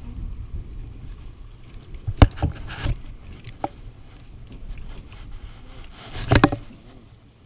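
Low, steady wind rumble on the microphone, broken by sharp knocks: a hard one about two seconds in with a few lighter ones after it, and a louder cluster a little past six seconds.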